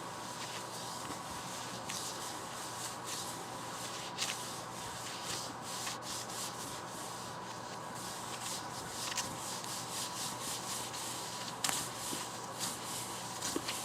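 Fingers rubbing and scratching over a book, a steady brushing with many small clicks scattered through it.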